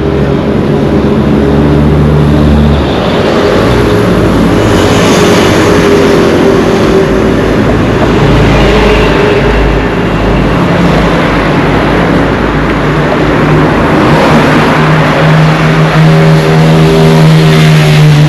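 Motor vehicle engines running, with road noise. The engine tone shifts in pitch a few seconds in and again near the end.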